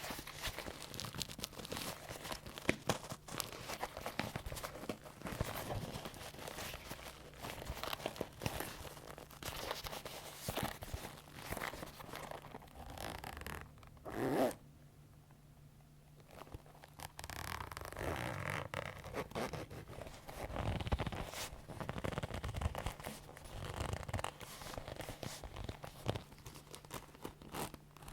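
Leather being handled up close, creaking and rubbing with many small clicks. It stops briefly about halfway through, then starts again.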